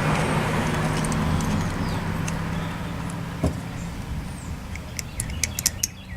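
A steady low mechanical hum that fades away about four seconds in, then a quick run of small sharp clicks of metal parts and tools being handled during carburetor reassembly.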